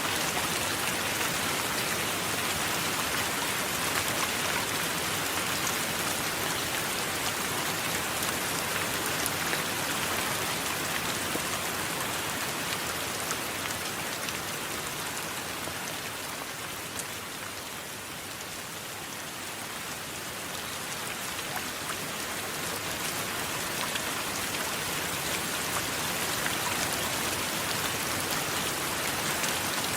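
Steady rain falling, a dense hiss with fine drop ticks through it. It eases slightly for a few seconds around the middle, then picks back up.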